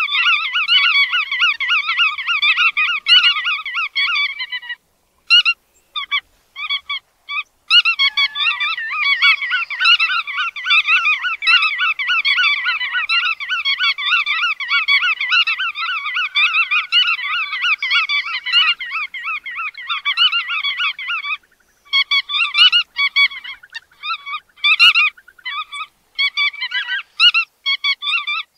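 Godwits calling: a dense chorus of rapid, repeated calls that breaks off for a couple of seconds early on, then runs on steadily before turning broken and intermittent near the end.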